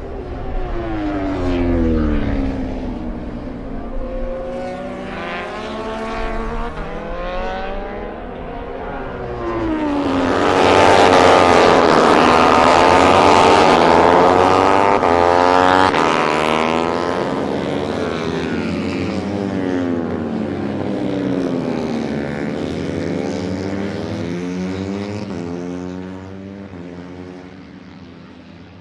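MotoGP racing motorcycle engines running at high revs as bikes pass by, their pitch rising and falling with each pass. Several bikes pass together in a loud cluster about ten seconds in, then the sound fades toward the end.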